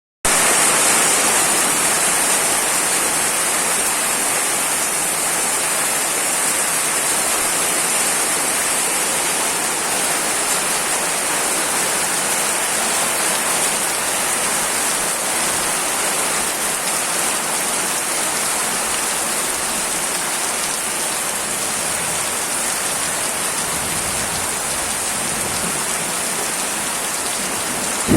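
Heavy rain falling steadily, a dense, even hiss of drops on hard surfaces.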